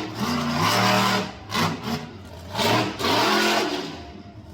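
Monster truck engine revving hard in about four surges, the pitch climbing and holding with each throttle blip.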